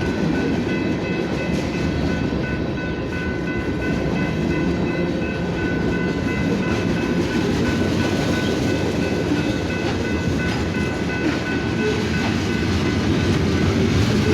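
BNSF freight train's box cars rolling past at trackside: a steady, loud rumble of steel wheels on the rails, with a faint steady high whine above it.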